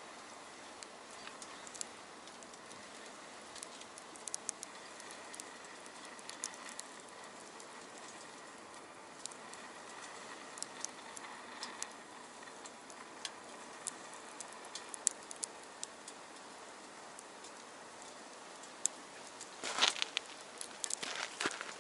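Small wood fire burning in a stainless steel box stove: a steady hiss with scattered sharp crackles and pops, and a burst of louder crackling near the end.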